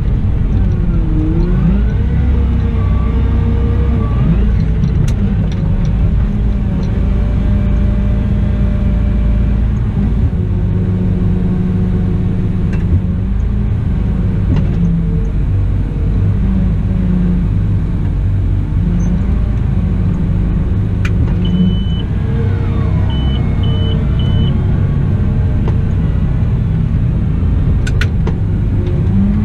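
Cat 972M XE wheel loader running under load: a steady heavy diesel drone with its pitch rising and falling as the engine revs change. A few short high beeps sound a little past two-thirds of the way through.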